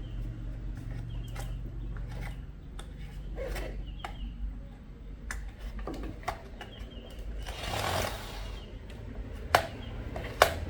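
Scattered light clicks and knocks, with two sharp, louder clicks about a second apart near the end, over a low steady hum.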